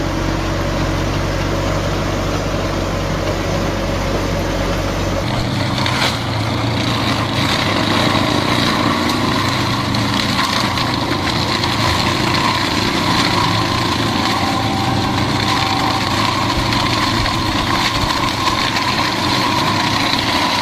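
Engine of heavy farm machinery running steadily. About five seconds in, the sound changes abruptly from a low rumble to a brighter, higher running sound.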